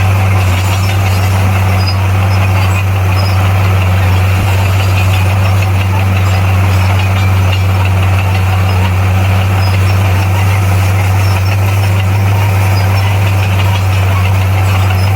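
Diesel engine of a Komatsu D58P bulldozer running steadily with a deep, even drone.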